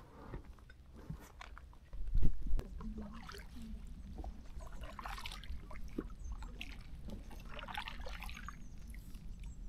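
Water splashing and trickling beside a small boat on a river, in several separate patches, with one loud knock about two seconds in.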